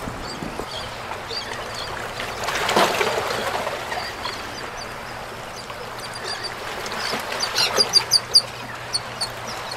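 Birds chirping in short high calls, several in quick succession near the end, over a steady rushing background.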